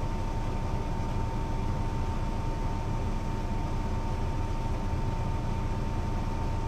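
Diesel engine of a Mercedes-Benz O 405 NÜ bus running steadily with a deep, even rumble and a constant high whine.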